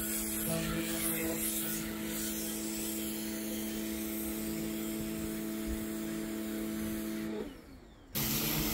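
Electric pressure washer (jet wash) running, its motor humming steadily over the hiss of the spray. The sound dies away about seven seconds in, then cuts back in abruptly under a second later.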